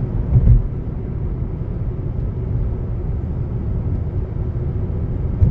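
Car driving on a country road, heard from inside the cabin: a steady low rumble of road and engine noise, with two brief low thumps, one about half a second in and one near the end.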